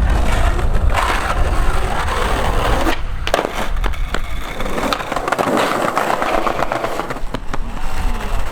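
Skateboard wheels rolling on pavement with a steady rumble, broken by a few sharp clacks of the board.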